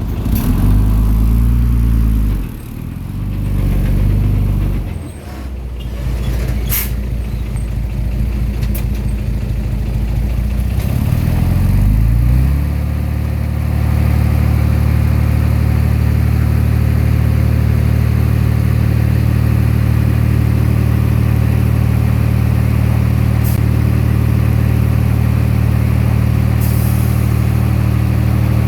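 Komatsu D20P bulldozer's diesel engine under working load. For about the first twelve seconds its pitch rises and falls, then it settles into a steady, even run at constant speed. A couple of sharp clicks come about seven seconds in.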